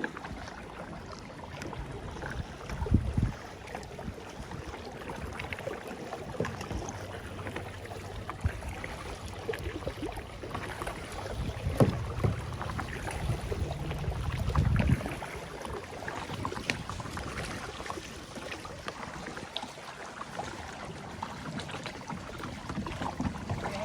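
Kayak being paddled: paddle strokes dipping and splashing in the water, with low rumbles now and then and a few sharp knocks.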